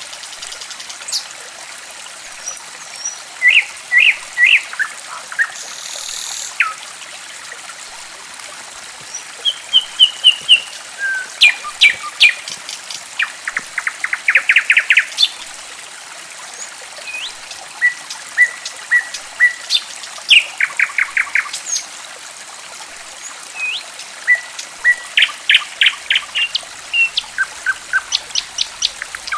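Songbirds calling in quick runs of short repeated notes and single whistles, over a steady trickle of running water.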